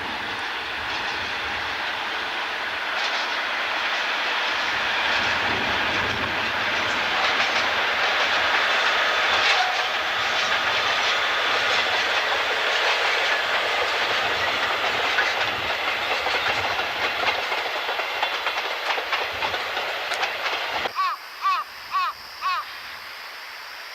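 A mixed train double-headed by two DE10 diesel-hydraulic locomotives passing, wheels clicking over the rail joints, growing louder to a peak about nine seconds in, with strong wind buffeting the microphone. The sound drops away abruptly about three seconds before the end, leaving a few short chirps.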